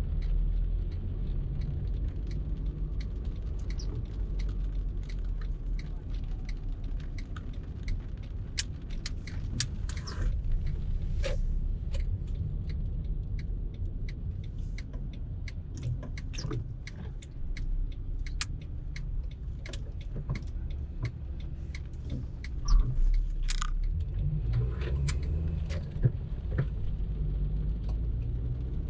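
Car driving in traffic, heard from inside the cabin: a steady low road and engine rumble with many small, irregular clicks and rattles. A sharper knock comes about two-thirds of the way through and another near the end.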